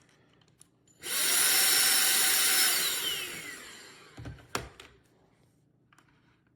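Tineco Pure ONE S11 cordless stick vacuum switched on with a sudden loud, high-pitched rush of air. It runs for under two seconds, then is switched off and spins down with a falling whine. A couple of knocks follow as it winds down.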